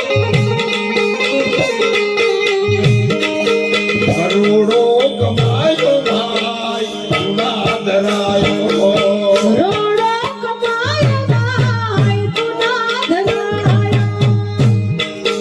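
Devotional bhajan music: tabla drumming a rhythm under a gliding melody line, over a steady low drone.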